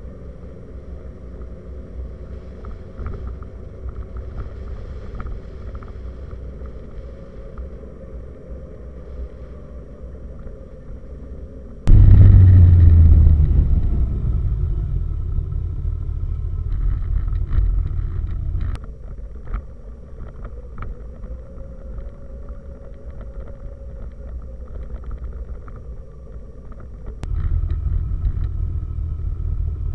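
Motorcycle running at road speed, a steady engine drone under a low rumble of wind on the microphone. About twelve seconds in comes a sudden loud surge that fades over a couple of seconds, and near the end the rumble steps up again.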